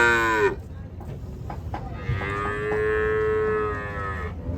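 Cattle mooing: a loud moo ends about half a second in, then a second long, steady moo of about two seconds begins about two seconds in.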